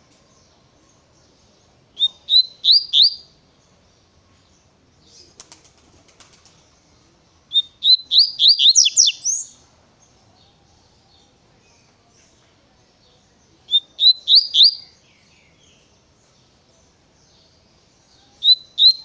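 Coleiro (double-collared seedeater) singing its tui-tui song: four short phrases, each a quick run of high rising notes, about five to six seconds apart.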